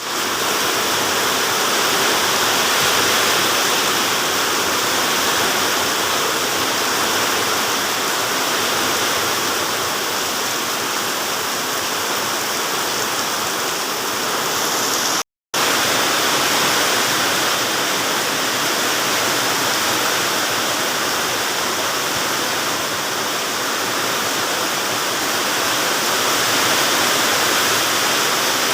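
Heavy rain pouring down in a storm, a dense steady hiss of water with no let-up. It cuts out completely for a split second about halfway through.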